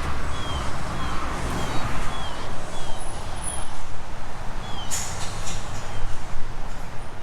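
Low, steady rumble of an engine or vehicle, with a small bird repeating a short, high, falling chirp every second or so. A sharp click about five seconds in.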